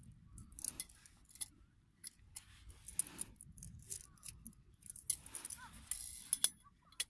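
Light metal clinking and clicking in irregular knocks, with one brighter ringing clink about six seconds in.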